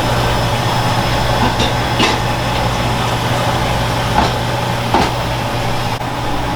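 Restaurant kitchen noise: a steady machine hum, with four short knocks on wood.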